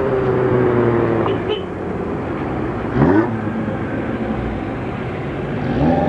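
Hill-climb racing car engine at full throttle, its pitch falling off in the first second and a half, then a sharp rise in revs about three seconds in and again near the end as the car accelerates.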